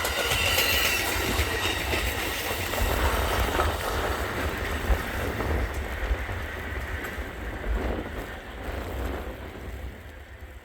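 A train rolling by with a steady low rumble and wheels clicking over rail joints, with a faint wheel squeal. It grows gradually fainter toward the end.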